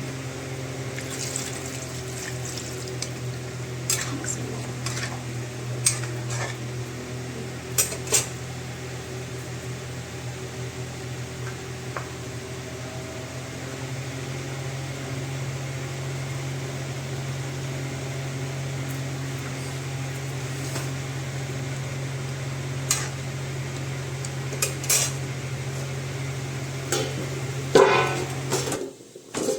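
Metal utensil clinking against a cooking pot every few seconds, over a steady low hum that cuts off near the end.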